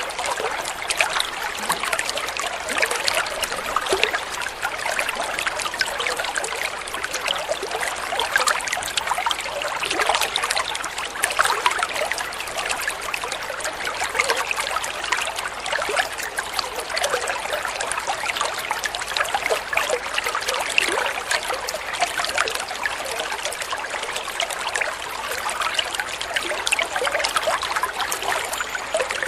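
Water flowing steadily with a constant trickling, splashing rush, full of small quick splashes and no pause or change.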